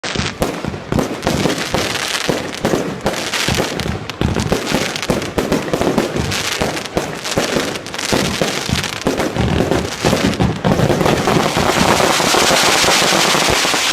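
Fireworks display: rapid, overlapping bangs and cracks of exploding shells, with many bursts every second. Near the end they merge into one continuous dense barrage.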